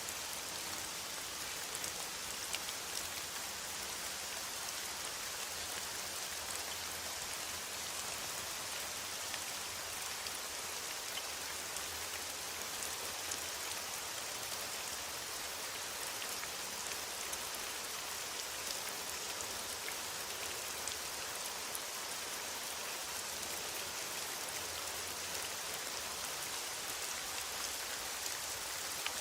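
Steady rain falling on forest foliage, an even hiss with scattered individual drops ticking.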